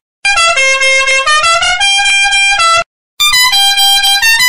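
Loud musical horn playing a stepped tune, several tones at once, in two phrases with a short break about three seconds in. It is typical of a bus horn sound-variation effect.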